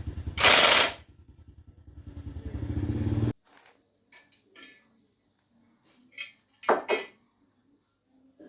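Small Viet Trung 1.9 hp single-cylinder gasoline engine running with rapid pulsing. A loud, noisy blast comes about half a second in, then the engine sound builds and cuts off suddenly about three seconds in. A few light metal clicks follow, with two sharp metallic clinks about seven seconds in.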